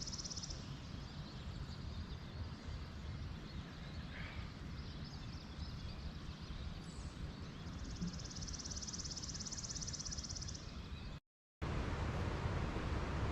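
Outdoor nature ambience: an insect's high, rapidly pulsing buzz, briefly at the start and again for about three seconds in the second half. A single short bird chirp comes around a third of the way in, over a low wind rumble. A brief dropout near the end is followed by steadier, louder wind noise.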